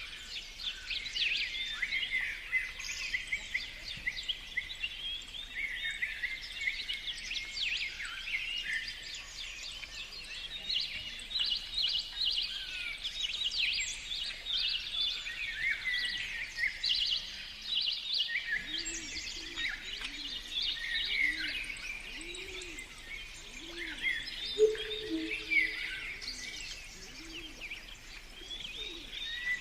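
A chorus of several songbirds chirping and trilling at once, dense and overlapping throughout. From about two-thirds of the way in, a low call repeats over and over beneath the chirping for several seconds.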